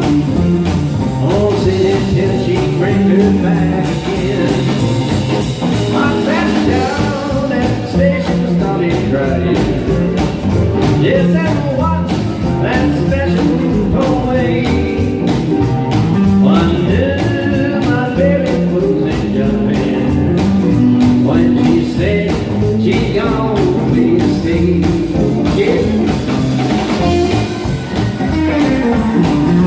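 Live blues band playing: electric guitars over bass and drums, in an instrumental stretch between sung lines.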